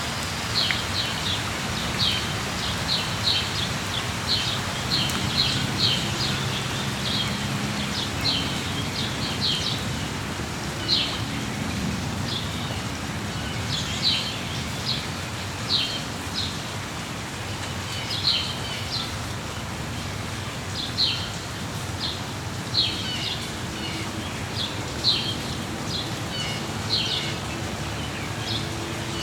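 Small birds chirping in short, high notes, several in quick succession at times, over the steady hiss of falling rain.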